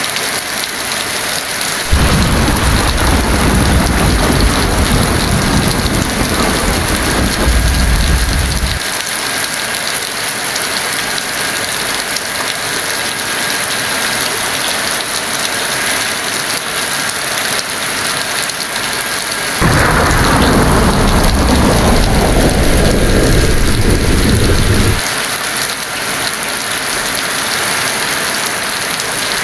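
Heavy rain falling steadily, with two loud low rolls of thunder: one starting about two seconds in and lasting some seven seconds, the other starting about twenty seconds in and lasting some five seconds, each starting and stopping suddenly.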